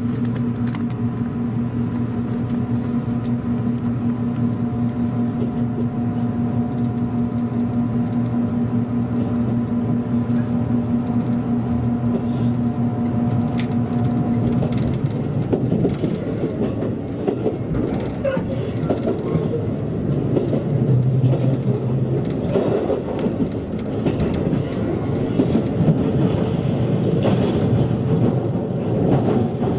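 Passenger train running, heard from inside the carriage. A steady hum with a few even tones holds for about the first half, then gives way to a louder rolling rumble of the wheels on the track.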